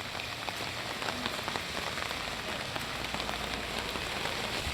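Steady rain falling, with many separate drop ticks through an even hiss.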